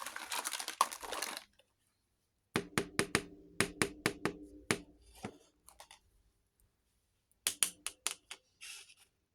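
Miniature toy kitchenware being handled: a rustle of packaging for the first second or so, then two runs of quick sharp clicks as the small pieces tap and clink together, each click with a short ringing tone, and a brief rustle near the end.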